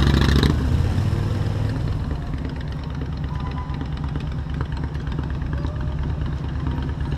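Motorcycle engine running steadily at low speed, louder for the first half second and settling by about two seconds in.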